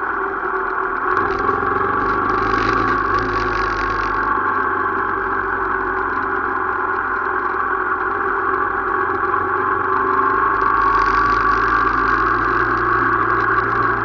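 Motorcycle engine running at a steady speed while riding, holding an even drone, with a rushing hiss that comes and goes.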